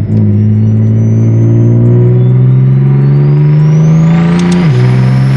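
Single-turbo BMW M3 CS's straight-six accelerating hard: its pitch climbs steadily through a gear with a turbo whistle rising alongside, then drops sharply at an upshift near the end.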